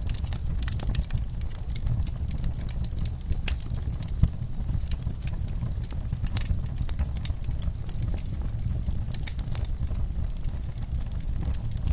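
Wood fire in a fireplace crackling: irregular sharp pops and snaps over a steady low rumble of the flames, with one louder pop about four seconds in.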